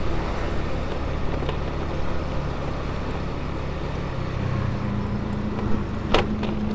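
Motorcycle engine running at low speed as it rides, a steady low hum that steps up a little in pitch about four seconds in. A single brief sharp sound cuts in near the end.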